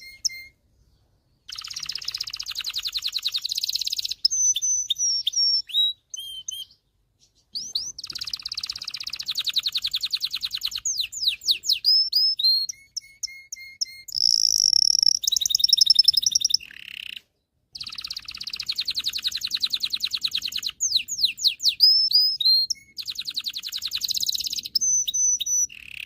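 Domestic canary singing: phrase after phrase of rapid rolling trills and quick rising and falling whistled notes, each phrase a few seconds long with short pauses between.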